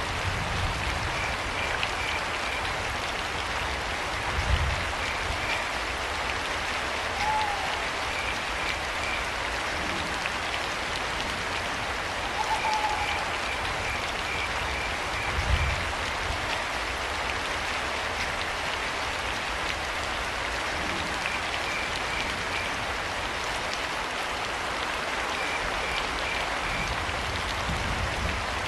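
Steady rain with crickets chirping in short bursts of a few quick chirps every few seconds, and an owl giving two short hoots, about 7 and 12 seconds in. A couple of low thuds sound under the rain.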